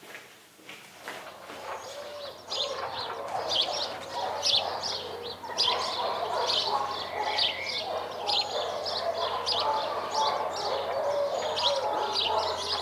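Small birds chirping and twittering: many short, high notes several times a second, starting about two seconds in, with lower sliding calls underneath.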